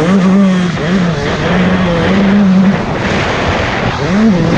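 Motocross bike engine running hard under throttle. Its pitch holds mostly steady, drops briefly several times as the throttle is closed, and revs sharply up and back down near the end.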